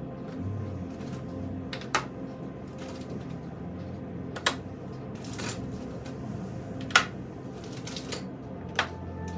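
Sharp, separate clicks of fridge magnets being handled and set against a hard surface: four louder clacks a couple of seconds apart, the loudest about seven seconds in, over a faint steady hum.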